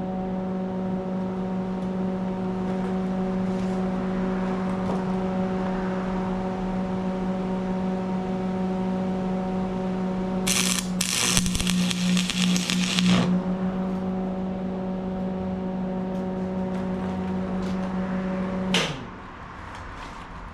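Electric arc welder tacking steel: a brief strike, then about two and a half seconds of crackling, sizzling arc in the middle. Under it a steady machine hum runs until near the end, then winds down and stops.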